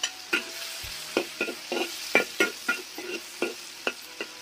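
Walking catfish and sour bamboo shoots being stir-fried: a steady sizzle, with a spatula scraping and knocking against the wok about a dozen times at an irregular pace.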